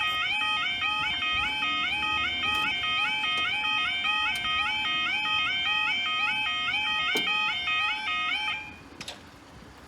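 Level crossing's electronic yodel alarm warbling, about two cycles a second, then cutting off suddenly near the end, leaving only a low background rumble.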